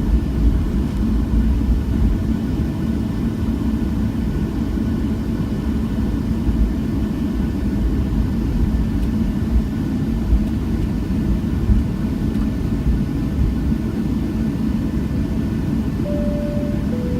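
Steady engine rumble and hum heard inside the cabin of a Southwest Boeing 737 airliner. Near the end a single chime tone sounds: the first note of the cabin chime.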